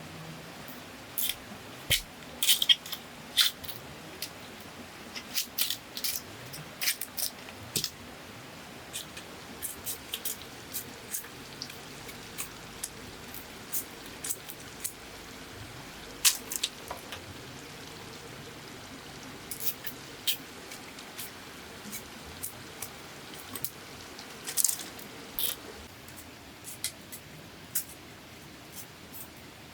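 Irregular sharp clicks and light snaps, sometimes several in quick succession, over a steady low hiss.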